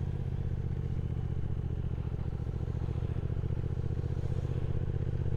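Triumph Speed Twin 1200 motorcycle's parallel-twin engine running steadily at road speed, heard from the rider's own bike.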